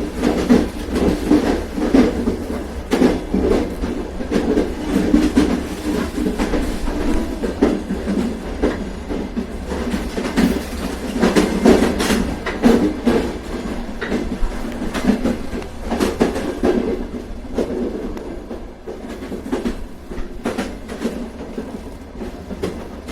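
A train running along the track: a steady rumble with the wheels clicking irregularly over rail joints, easing a little in loudness in the last few seconds.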